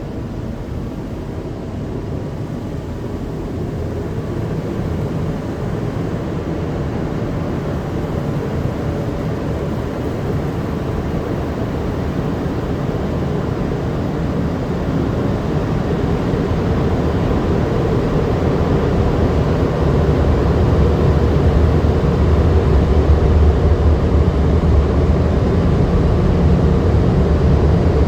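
Automatic car wash machinery running: a steady noise that grows gradually louder, with a deep hum strengthening about two-thirds of the way through.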